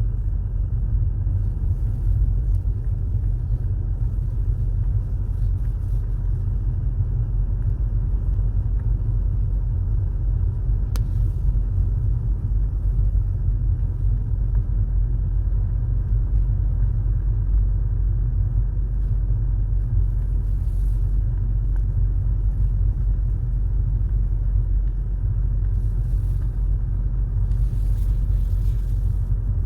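A car driving, giving a steady, unbroken low rumble of engine and road noise.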